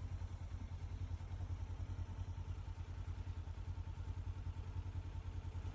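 A vehicle engine idling steadily with a low, even, rapid putter.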